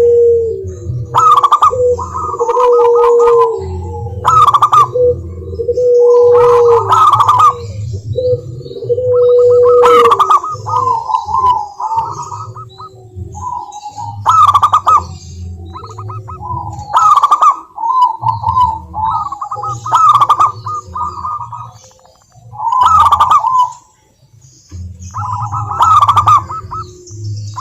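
Zebra doves (perkutut) calling over and over in short, quick staccato cooing phrases, more than one bird with their phrases overlapping and answering.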